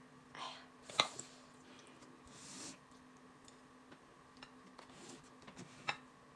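Quiet tableware handling: a few light clicks of chopsticks and fingers against ceramic plates and bowls, with soft rustling between, the clearest click about a second in and another near the end.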